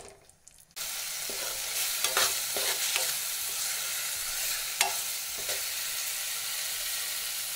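Onion, capsicum and tomato masala with ground spices sizzling as it fries in a metal kadai, while a steel spoon scrapes and taps the pan as it is stirred. The sizzle comes in suddenly about a second in and then holds steady, with scattered scrapes of the spoon.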